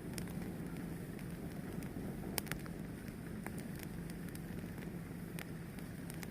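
A fire burning with a steady low rumble and scattered sharp crackles and pops, the loudest pop about two and a half seconds in.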